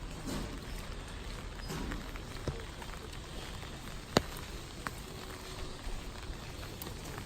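Rain falling, a steady even hiss, with a few scattered sharp clicks; the loudest comes a little over four seconds in.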